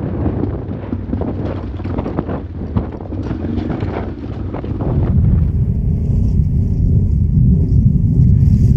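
Honda Transalp motorcycle engine running on a gravel track, with wind buffeting the microphone. The engine grows noticeably louder about five seconds in.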